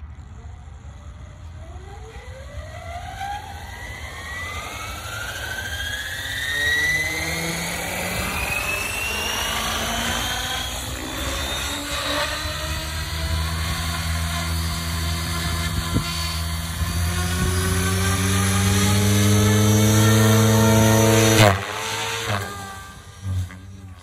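Electric RC helicopter with an X-Nova motor spooling up: a whine that climbs steadily in pitch over the first several seconds as the rotor comes up to speed, settling into a steady rotor and motor hum that grows louder. About 21 seconds in there is a sudden loud burst with a sharp dip in pitch, after which the sound drops away briefly.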